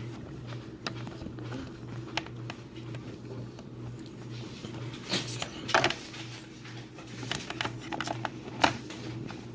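Small plastic toy figurines and props being handled, giving scattered light clicks and taps, with sharper clicks about five seconds in and near the end, over a steady low hum.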